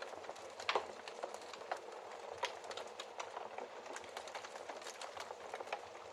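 Fireplace fire crackling: a soft hiss full of small irregular snaps, with a louder pop just under a second in.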